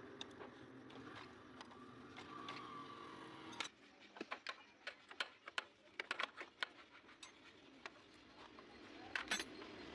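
Irregular sharp clicks and light taps of tools and metal engine parts being handled during engine reassembly. A steady background hum with a faint whine stops suddenly about three and a half seconds in.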